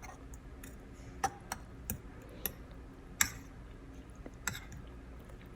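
A utensil clicking against the side of a bowl while egg, milk and cheese are stirred together: about half a dozen irregular, sharp clinks.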